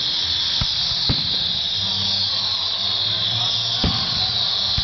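Aerial fireworks display: three booms of shells bursting, about half a second in, a second in and near four seconds, over a steady high hiss with faint falling whistles.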